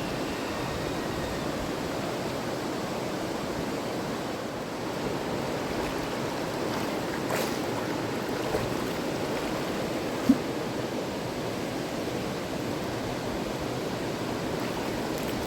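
River water rushing steadily, with one short sharp knock about ten seconds in.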